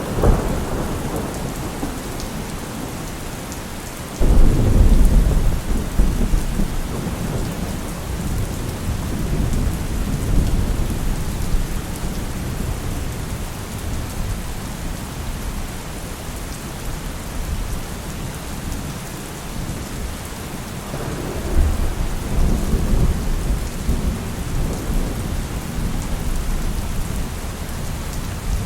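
Heavy rain falling steadily in a thunderstorm, with rolls of thunder: a deep rumble cracks in suddenly about four seconds in and dies away over several seconds, and another long roll builds about twenty-one seconds in.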